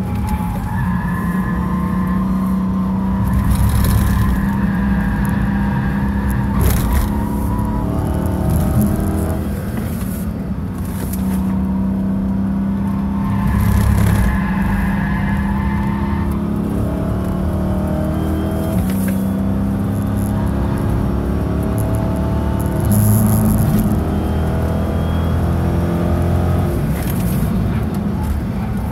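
2015 Dodge Charger SRT 392's 6.4-litre HEMI V8, heard from inside the cabin at track speed. The engine note swells and eases several times as the car is driven hard through the corners.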